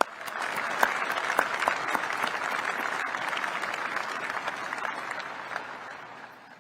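Audience applauding: a burst of clapping that starts at once, holds steady, then fades away near the end.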